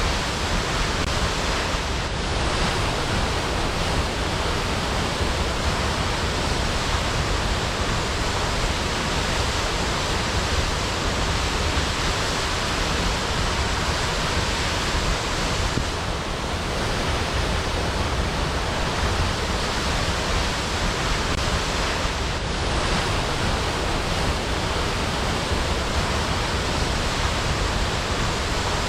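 Waterfall: a steady, dense rush of falling water that doesn't change.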